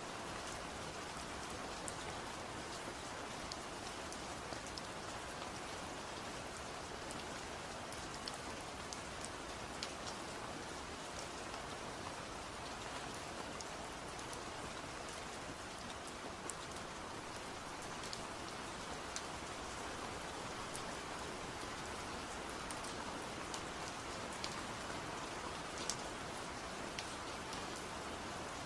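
Steady rain falling, with scattered individual drops ticking sharply over it.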